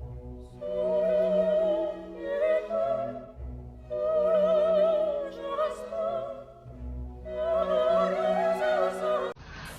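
Operatic singing: a voice with strong, even vibrato sings three long phrases with short breaks between them, over classical accompaniment.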